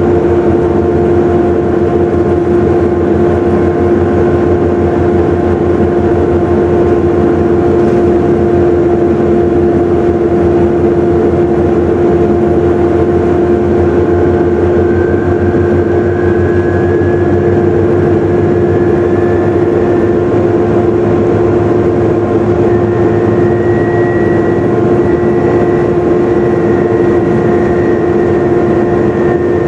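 Volvo B7TL double-decker bus running, heard on board: a loud, steady drone with a strong whine, the vacuum-cleaner-like sound that bus enthusiasts call a "hoover". A second, higher whine rises in pitch about halfway through and holds high near the end.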